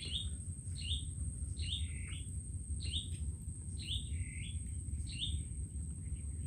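A bird calling repeatedly, a series of short chirps a little more than one a second, over a steady low rumble.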